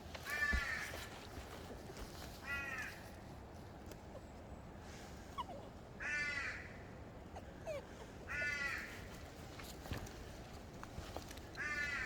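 A crow cawing: about five harsh calls, spaced a couple of seconds apart.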